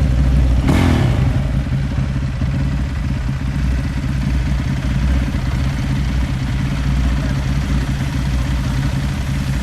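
Motorcycle engine running steadily, with a short burst of noise about a second in.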